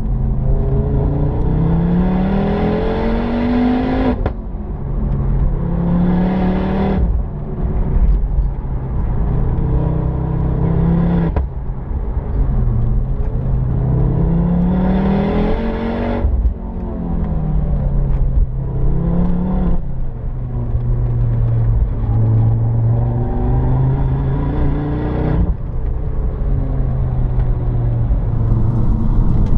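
Hot-hatch car engine accelerating hard through the gears: its pitch climbs with each pull and drops sharply at every upshift, several times over.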